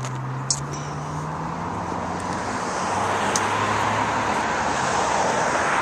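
Road traffic: a motor vehicle's low engine hum, then tyre-and-road noise that grows steadily louder over the last few seconds.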